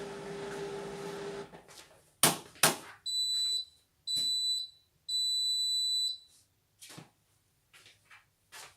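Indesit washing machine ending its cycle. Its running hum stops about a second and a half in, two loud clicks follow, then three high beeps, the last one longer, signalling the end of the cycle. A few faint knocks come near the end.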